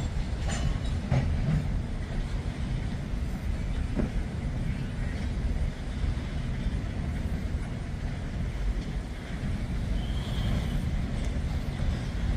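Freight cars, open-top hoppers, rolling slowly along the track with a steady low rumble and a few sharp clanks from wheels and couplers in the first few seconds. A brief wheel squeal comes about ten seconds in.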